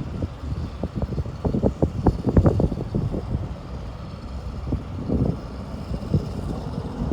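Gusty wind buffeting the microphone: irregular low rumbling thumps that come and go, strongest in the first three seconds.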